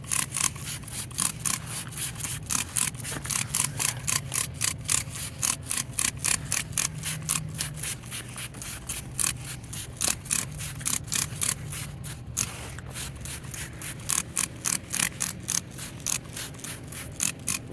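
Trigger spray bottle of Greased Lightning degreaser being squeezed over and over, quick spritzes about three a second with a few short pauses, coating the old grease on a tractor engine.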